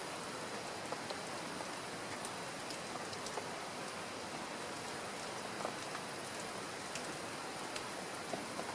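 Steady rain falling, with scattered sharp ticks of single drops hitting a surface.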